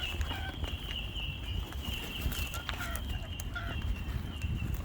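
Birds giving short, soft calls over a steady, high-pitched trill.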